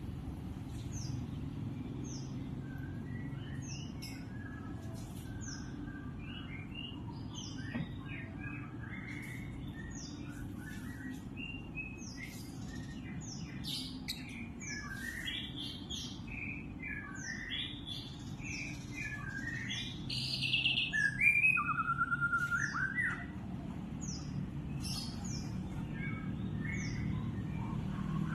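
Lovebirds chirping and twittering in a steady stream of short, high calls, with a louder burst of rapid, rattling chatter about twenty seconds in. A steady low hum runs underneath.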